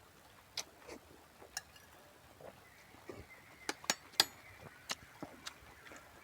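A person chewing food: scattered small crunches and mouth clicks, the loudest a little after four seconds in.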